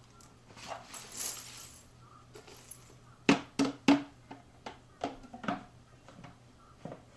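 Scattered light clicks and taps, with three sharper ones in quick succession a little after the middle and a brief hiss early on.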